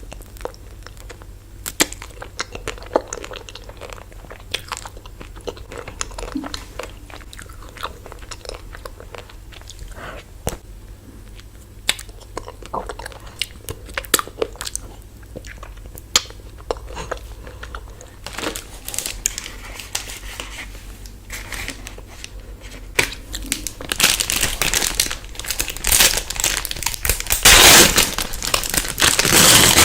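Close-up biting and chewing of chocolate-coated ice cream bars: many small crunches and wet mouth clicks. About three-quarters of the way through, a louder crinkling starts and builds, the rustle of a plastic ice-cream wrapper being handled.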